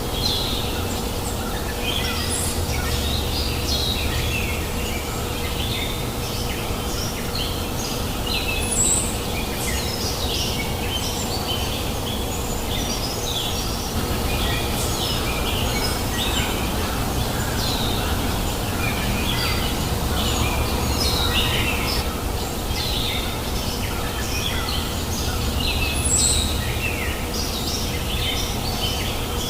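Many small birds chirping and calling in quick, overlapping short notes, over the steady rushing babble of a river, with a faint steady hum underneath.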